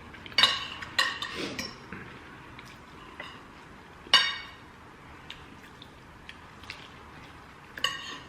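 Cutlery clinking against plates and bowls during a meal: a few sharp clinks with a brief ring, a cluster about half a second to a second and a half in, one about four seconds in, and more near the end.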